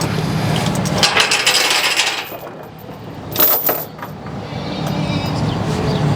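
Metal tie-down chains clinking and rattling, in a cluster of clinks about a second in and another short burst past three seconds, over an engine running steadily.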